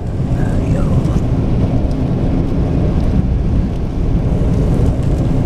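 A steady, loud low rumble with a few faint short squeaks on top.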